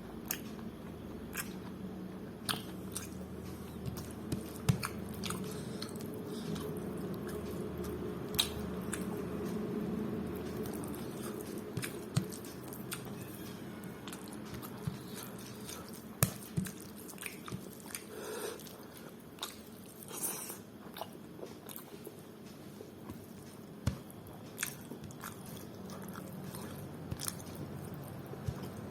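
Close-up eating sounds: chewing a mouthful of mutton curry with rice and dal, with wet smacks and sharp clicks scattered throughout.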